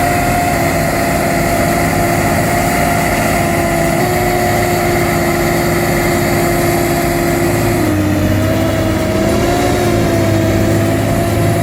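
Heavy machine's engine running steadily with a droning hum. Its pitch shifts slightly about four seconds in and again about eight seconds in.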